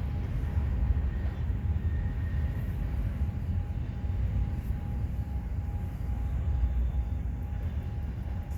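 Freight train cars rolling past, a steady low rumble with a faint continuous high tone over it.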